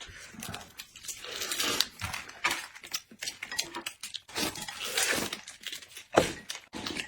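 Close-miked eating sounds: chewing and mouth noises with many short, irregular clicks.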